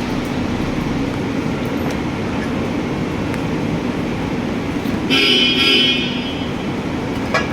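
Steady rumble of traffic, with a vehicle horn sounding once for about a second near the end, followed shortly by a short knock.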